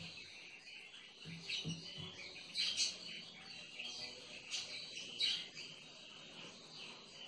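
Small birds chirping on and off, short high calls repeating, the loudest about three and five seconds in.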